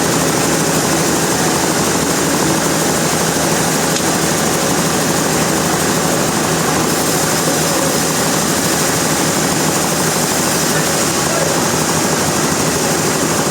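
Sawmill machinery running steadily: a loud, even mechanical noise with no separate cuts or impacts.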